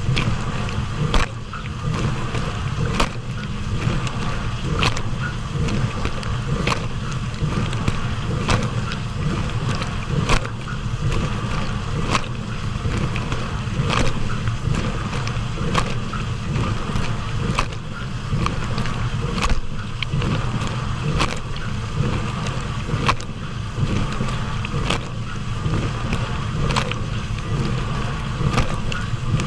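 Hotpoint dishwasher running its wash cycle: a steady low hum under a constant rush of spraying water, with sharp splashes of water striking at regular intervals of about two seconds.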